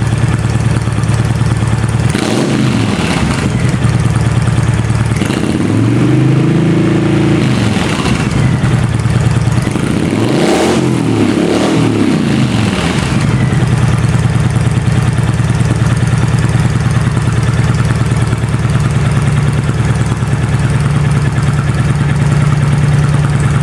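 Honda VTX 1300 V-twin engine with slip-on slash-cut exhausts, idling steadily and revved several times, the pitch rising and falling with each blip, between about 2 and 13 seconds in, then settling back to idle.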